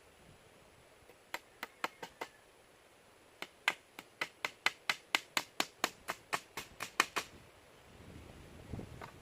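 Sharp knocks: a few scattered ones, then a steady run of about four a second for nearly four seconds. A faint low rustle follows near the end.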